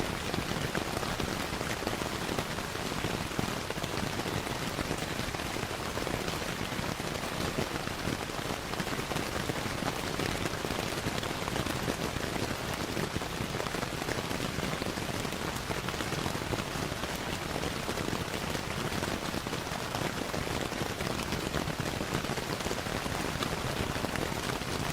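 Steady rain falling on a surface, a constant dense patter, mixed with the small pops and crackles of a wood fire.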